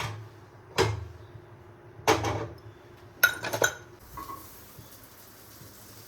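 Kitchen cookware and utensils being handled: a few sharp clinks and knocks over the first four seconds, then a faint steady hiss begins, the start of food sizzling in a pan.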